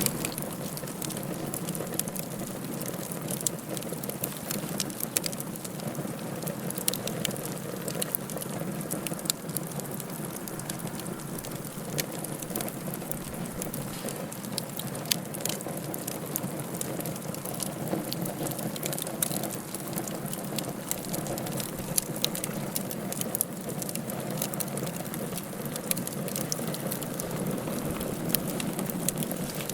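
Wood fire burning in a fireplace: a steady rushing hiss with irregular sharp crackles and pops scattered throughout.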